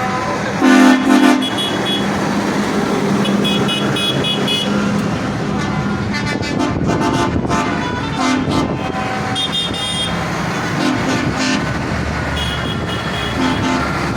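Horns on a line of passing tractors tooting again and again, over the steady running of their engines. Two short loud blasts come about a second in, and further toots follow every few seconds.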